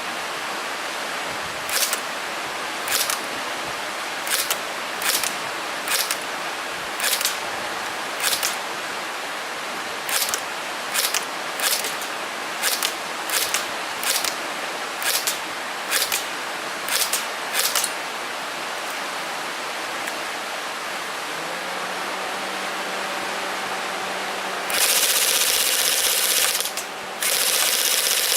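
An airsoft gun firing single shots, about eighteen of them over some sixteen seconds, unevenly spaced, over a steady hiss. A louder steady hiss comes in near the end and breaks off briefly once.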